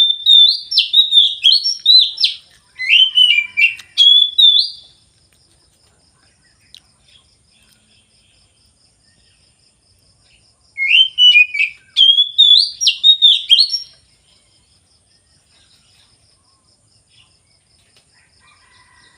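A songbird singing loud phrases of quick, sweeping whistled notes: one bout for the first five seconds or so, then another from about eleven to fourteen seconds in.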